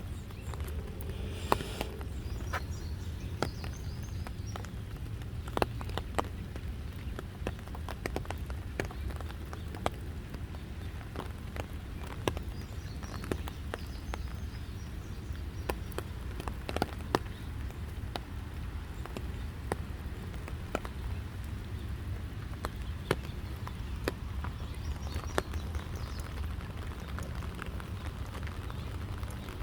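Raindrops falling, tapping at irregular moments as sharp clicks over a steady low rumble.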